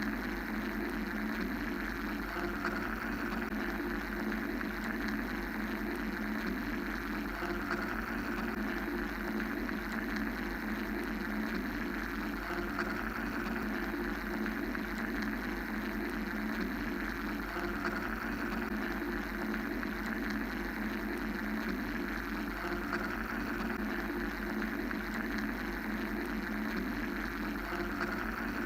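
Steady mechanical white-noise drone: a low rumble, a hum band in the low middle and a hiss higher up that slowly swells and eases every few seconds, with no breaks.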